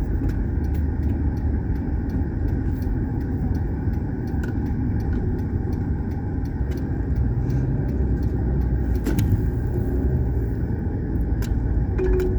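Steady low rumble of a car being driven, heard from inside the cabin: road and engine noise, with a few faint clicks.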